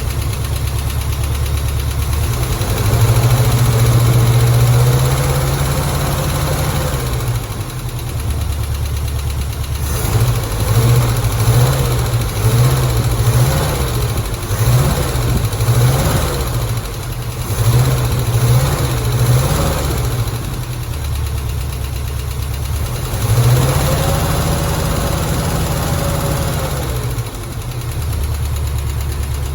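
Small-block Chevy 350 V8 idling, revved and held for a few seconds, then blipped about ten times in quick succession, then revved and held once more before settling back to idle.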